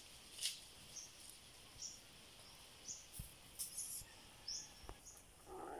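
Faint outdoor ambience with a small bird chirping repeatedly, short high calls about once a second, and a few soft clicks. A louder, rougher sound begins near the end.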